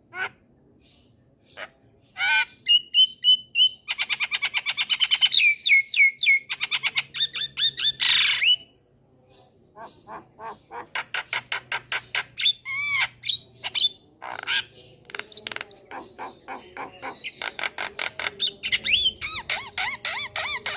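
Javan myna (jalak kebo) singing: fast runs of harsh, rapidly repeated chattering notes mixed with squawks and whistled glides. The song breaks off for about a second near the middle, then resumes.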